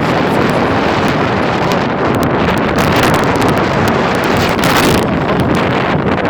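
Loud, steady rush of windstorm wind blowing against a big rig on the road, with wind hitting the microphone. The rush swells briefly about three seconds in and again near five seconds.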